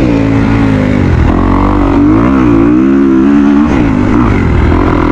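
Dirt bike engine running under riding load, its pitch rising and falling with the throttle.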